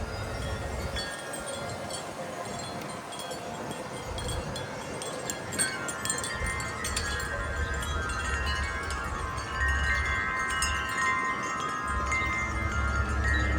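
Several wind chimes ringing in gusty wind, many overlapping tones, fuller from about halfway on. Gusts of wind buffet the microphone with a low rumble.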